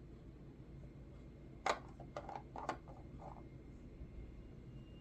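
A few light clicks and taps of small objects being handled, a little past halfway, over a low steady room hum.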